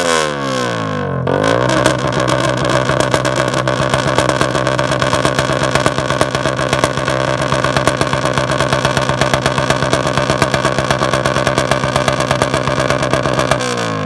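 Honda RS150 pit bike's 150 cc single-cylinder engine, tuned by an aftermarket ECU, revved through an open exhaust: the revs dip and climb again, then hold at a steady high rpm for about twelve seconds with rapid crackling backfire pops, and fall away near the end.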